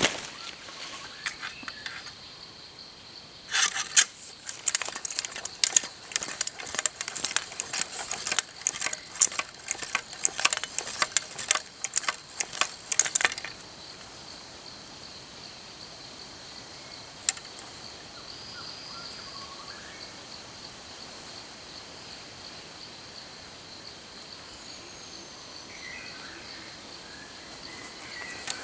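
Steady high-pitched drone of insects, with a dense stretch of crackling, rustling clicks for about ten seconds in the first half and a few faint bird chirps later.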